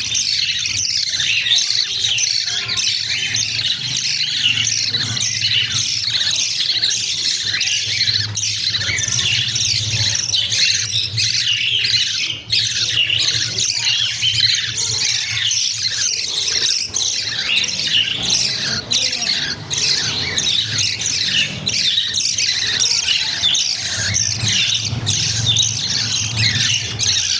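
Budgerigar chicks giving a constant stream of rapid, high-pitched begging calls, the sound of hungry chicks wanting to be fed, with a low steady hum underneath.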